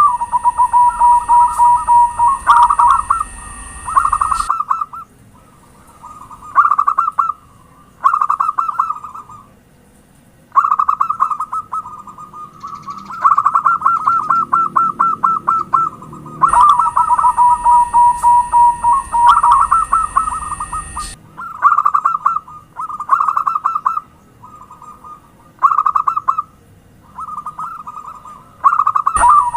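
Zebra dove (perkutut) cooing in bouts of rapid staccato notes, each phrase one to a few seconds long, separated by short pauses.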